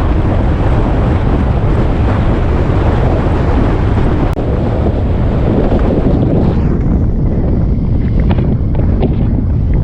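Wind buffeting the microphone of a moving motorcycle, a loud steady rumble. The hiss above it thins out about two-thirds of the way through.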